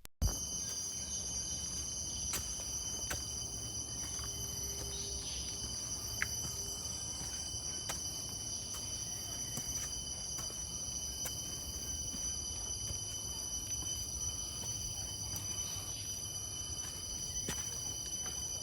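Steady chorus of insects, several high continuous tones layered over one another, with a low rumble and faint scattered clicks underneath.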